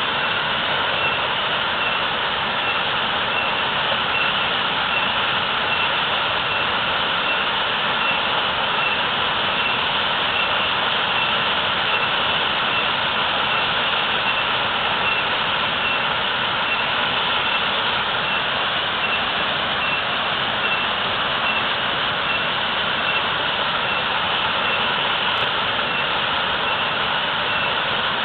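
Waterfall rushing heavily and steadily, with a faint high tone pulsing evenly in the background.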